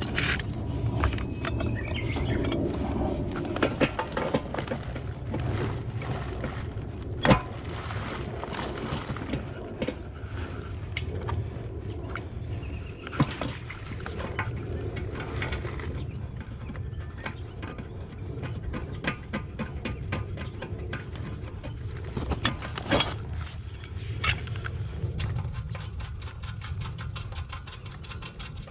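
Scattered clicks, knocks and scraping of hand work on metal plumbing, such as fittings and a pipe wrench on well-pump piping, over a steady low hum. The sharpest knocks come about 7 seconds in and again about 23 seconds in.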